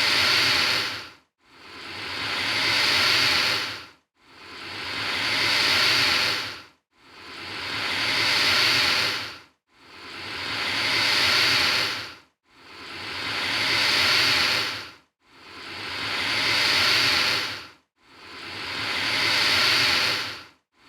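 Alligator hissing in a steady repeat: long breathy hisses about every two and a half to three seconds, each swelling and then fading out to a brief silence before the next.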